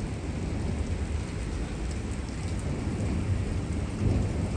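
Heavy rain falling steadily under a low rumble of thunder, which swells about four seconds in.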